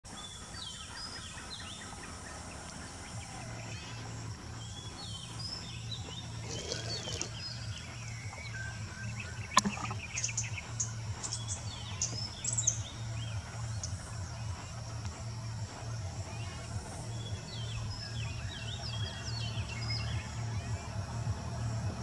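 Wild birds chirping and calling in repeated clusters over a steady low hum, with a single sharp click about ten seconds in.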